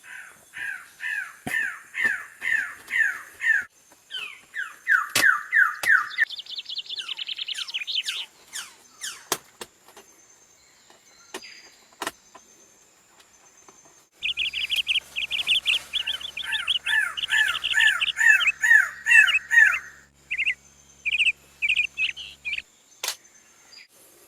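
Greater lophorina (superb bird-of-paradise) calling: runs of sharp, repeated notes that slide downward, several a second. The runs come in bursts with a long pause in the middle, and some series sit higher in pitch and come faster.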